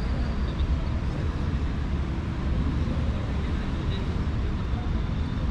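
Steady city traffic noise: a continuous low rumble of passing vehicles with no distinct single event standing out.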